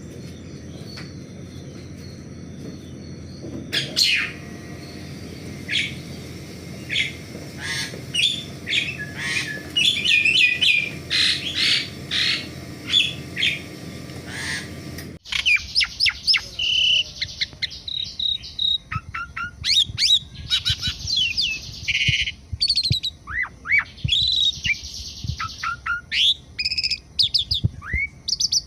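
Asian pied starling (jalak suren) singing: a varied run of loud whistles, chirps and chattering notes. A low background rumble under the song stops abruptly about halfway through.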